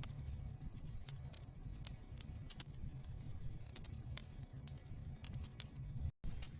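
Wood fire burning in a fireplace: a steady low rumble with scattered sharp crackles and pops. The sound cuts out for an instant near the end.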